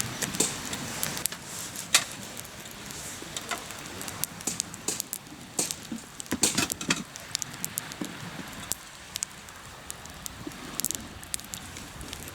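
Hardwood campfire crackling and popping, with irregular sharp snaps over a steady hiss of the burning wood; the pops come thickest about halfway through.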